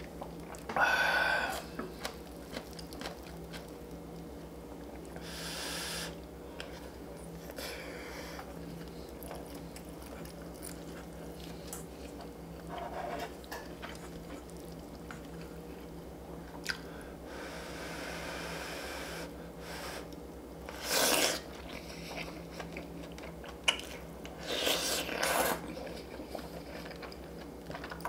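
Close-miked eating: chewing and crunching through a meal of short rib soup with chunky radish kimchi (seokbakji), with a few louder bites and crunches spread through.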